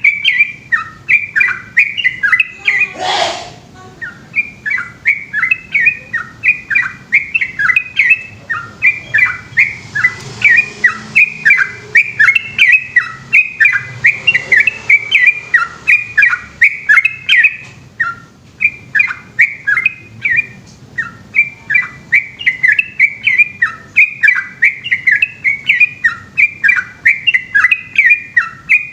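Yellow-vented bulbul singing continuously, rapid chirping phrases repeated about twice a second in a long unbroken run. A brief rushing noise sounds about three seconds in.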